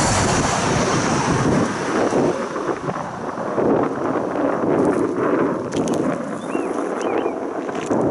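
Train rolling past at trackside, a steady loud rumble of wheels on rails with a few sharp clicks about six seconds in, and wind buffeting the microphone.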